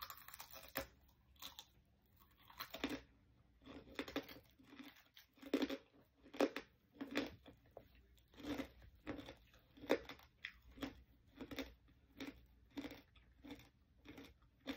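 Mouth chewing crispy chicharon (fried pork rinds), a steady run of crunches about three every two seconds.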